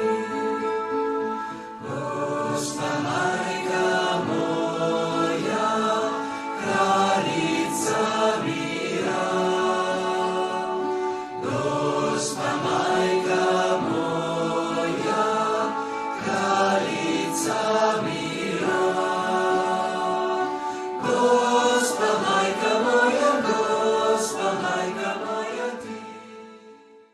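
Choral chant music, voices singing sustained lines with regular bright accents every few seconds, fading out near the end.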